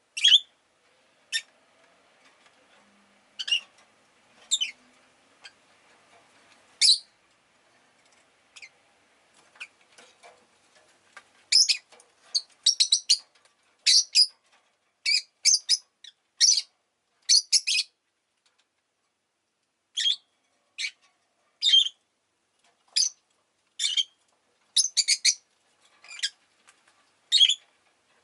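Rosy-faced lovebirds giving short, shrill chirps, scattered at first and then in quick runs of several calls.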